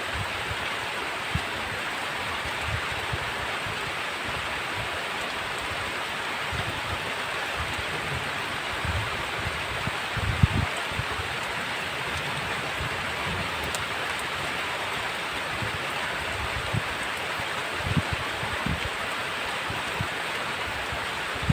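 Heavy rain falling steadily with a constant hiss, with short low thuds here and there and a sharper one about halfway through.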